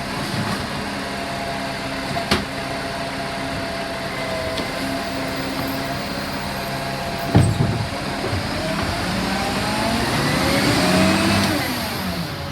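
Garbage truck's diesel engine running steadily while collecting a bin, with a sharp click about two seconds in and a heavy thump about seven seconds in. The engine then revs up and falls back near the end.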